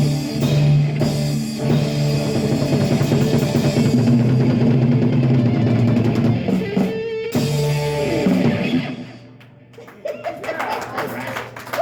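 Live rock band (drum kit, electric guitar and bass) playing the final instrumental bars of a song, stopping about nine seconds in, followed by a small crowd clapping and cheering.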